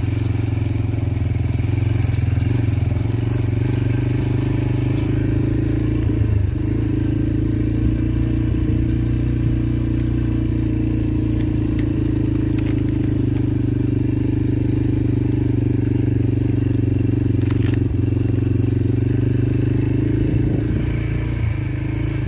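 Yamaha TT-R125LE dirt bike's small four-stroke single-cylinder engine running steadily under way as it is ridden. The engine note dips briefly about six seconds in and again near the end.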